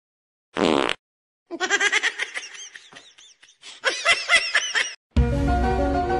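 A short buzzy sound about half a second in, then a person laughing in two bouts. Background music starts near the end.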